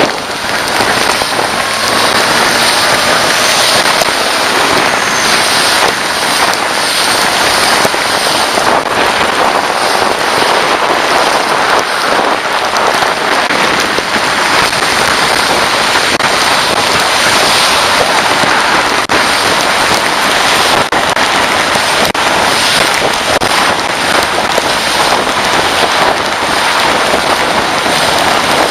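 Steady, heavy rain: a loud, dense hiss with many small drop hits crackling through it.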